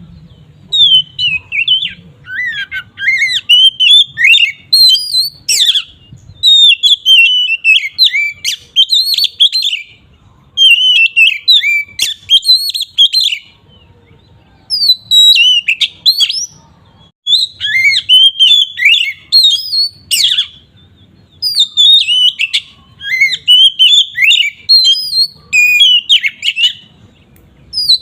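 Oriental magpie-robin (kacer) singing loud, full song of fast, varied whistles and chirps, delivered in phrases of one to three seconds with short pauses between them.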